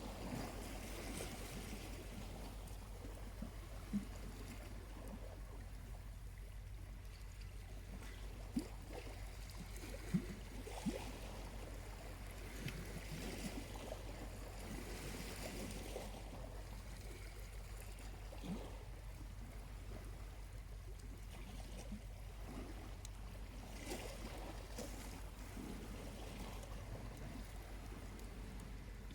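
Small waves lapping on a shore, swelling and washing in every several seconds, with a few sharp pops and crackles from a charcoal campfire, the loudest about four seconds in and twice around ten seconds in.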